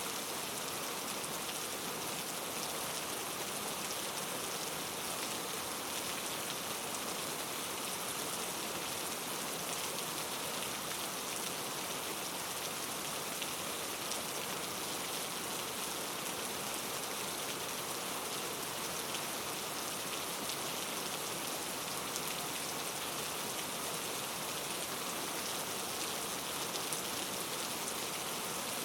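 Steady rain falling and pattering on surfaces, an even hiss of many fine drops with no thunder.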